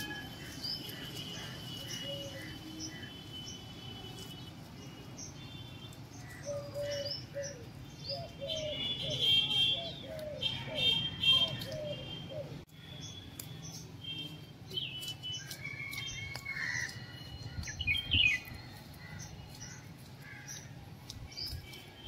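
Several songbirds chirping and calling, short chirps, trills and whistles scattered throughout, over a steady low hum.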